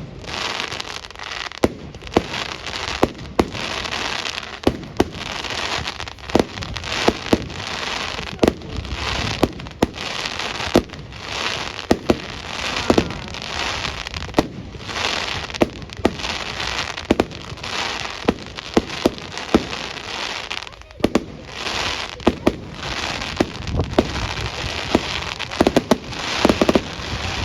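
A fireworks display: a continuous crackle and hiss of bursting shells, broken by many sharp bangs, with a short lull about three-quarters of the way through.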